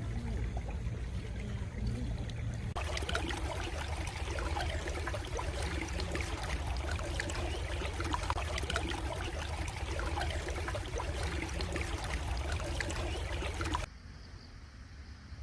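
A flowing stream trickling steadily. The sound changes abruptly about three seconds in, becoming fuller, then drops suddenly quieter near the end.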